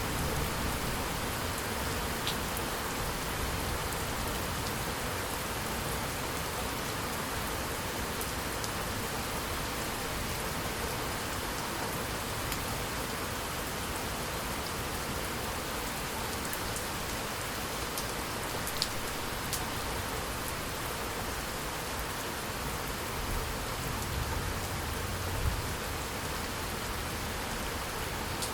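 Steady heavy rain falling as an even hiss, with a few separate drop taps standing out now and then.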